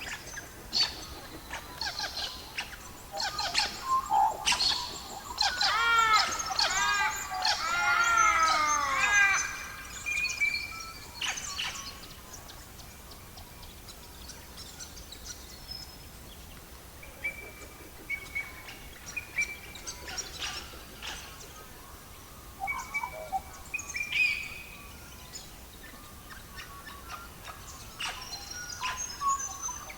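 Wild birds chirping and singing, busiest in the first ten seconds with a quick run of repeated arching notes, then scattered short high chirps.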